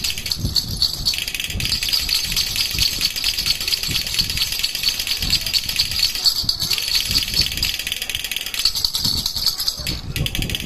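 Handheld baby rattle (jhunjhuna) shaken steadily: a fast, continuous rattling with softer knocks underneath. The rattling thins out briefly a few times.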